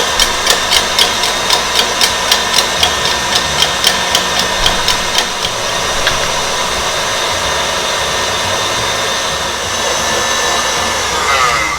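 Electric mixer whipping egg whites into marshmallow icing, its motor running steadily at speed. For the first five seconds or so there is a regular ticking of about four a second, which then gives way to an even whir.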